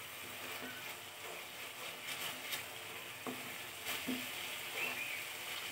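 Onion, garlic and green-chilli masala paste frying in oil in a steel pan, a steady soft sizzle, with a wooden spatula stirring and scraping it a few times. The paste is being cooked down until the oil separates from it.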